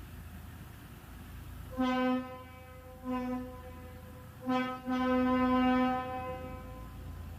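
A narrow-gauge train's single-note whistle sounding three short blasts, then one long blast, over the steady low rumble of the train.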